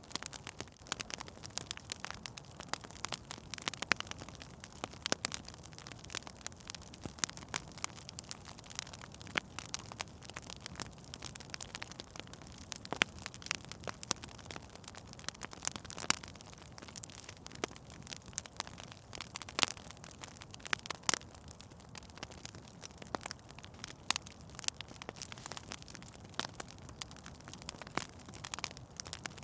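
Wood fire in a fireplace crackling, with irregular sharp pops over a soft steady hiss of burning.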